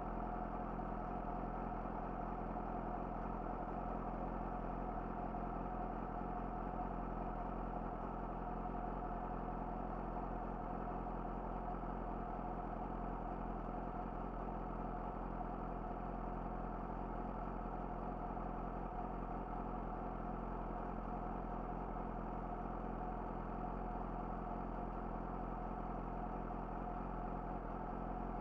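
Yamaha YZF-R6 inline-four engine running through an Akrapovic slip-on exhaust, holding a steady, unchanging engine speed with no revving throughout.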